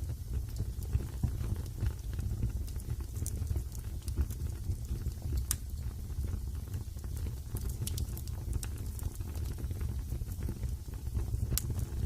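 Wood fire burning in a fireplace: a steady low rumble with scattered crackles and a few sharper pops, the clearest about a third of the way in, about halfway, and near the end.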